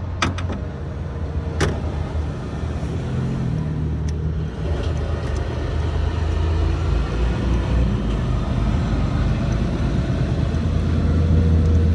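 Steady low rumble like a vehicle engine running nearby, with two sharp metallic clicks in the first two seconds from hand tools on the engine.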